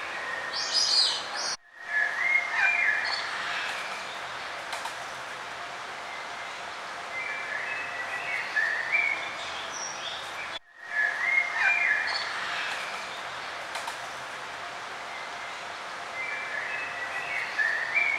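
Small songbirds chirping and twittering in short phrases over a steady outdoor background hiss. The sound cuts out for a moment twice, about nine seconds apart, and the same chirps repeat after each gap, as in a looped ambience recording.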